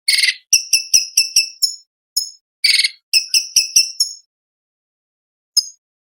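Orange-bellied leafbird (cucak cungkok) singing: rapid series of short, sharp, high chirps at about five a second, twice broken by a brief harsh buzzy note, then a pause near the end with a single chirp.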